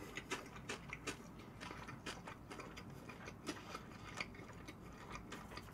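A person chewing a mouthful of food close to the microphone: faint, irregular mouth clicks and smacks, several a second.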